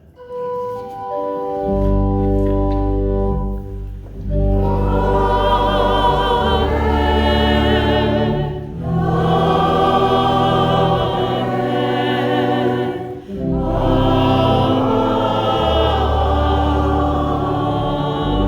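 Church organ music with a choir singing. Held organ chords begin the passage, deep bass comes in after a couple of seconds, and the choir joins at about four and a half seconds, with brief breaks between phrases about 9 and 13 seconds in.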